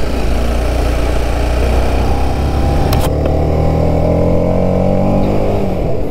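Sport motorcycle's engine pulling as the bike speeds up, its pitch rising gradually through the middle and dropping near the end, with wind rushing over the microphone. A brief sharp click about three seconds in.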